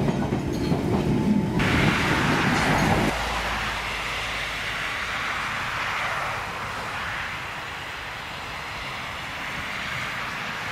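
Ichibata Electric Railway 3000 series electric train: a low running rumble from inside the passenger car for the first three seconds, then, after a sudden cut, the train heard from beside the track as it approaches, a steady even noise.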